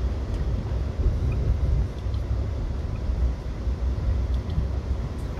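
Low, steady rumble of an Amtrak passenger coach rolling along the rails, heard from inside the car, with a few faint ticks on top.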